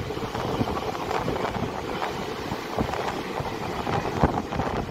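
Passenger train running, heard from inside the coach at an open window: a steady rumble and rush of wind over the microphone, with frequent small rattles and knocks and one sharper knock near the end.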